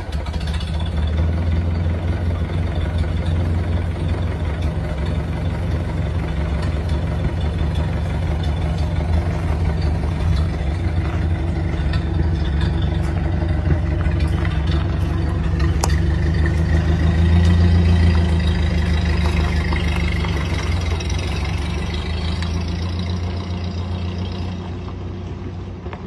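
Old car's engine idling steadily just after starting. It swells briefly a little past halfway, then grows gradually quieter near the end.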